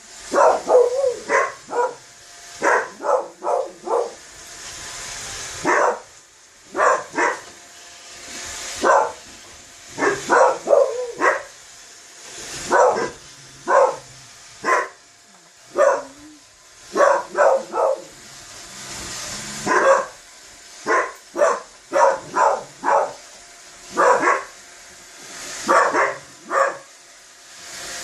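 A dog barking at a running Roomba robot vacuum: many sharp barks in quick clusters with brief pauses. The vacuum's steady whir is heard in the gaps between barks.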